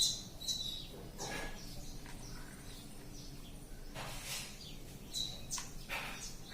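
Ring-necked parrot giving short, high chirps and squawks, several in a row with a quieter gap in the middle.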